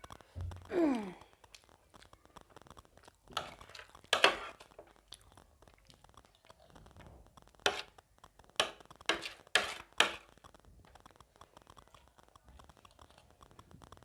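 Close-miked eating of chatpate, a spicy puffed-rice snack: a string of sharp crunching bites and chewing. There is a short falling vocal hum about a second in.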